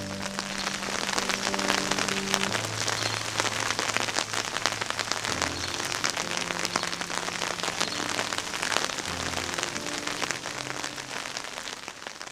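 Steady rain, a dense patter of close drop hits, with soft music chords held underneath that change every few seconds. It begins to fade near the end.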